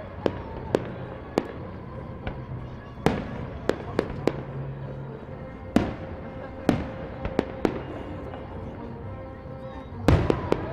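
Aerial firework shells bursting overhead: a dozen or so sharp bangs of varying loudness, irregularly spaced, with several close together near the end.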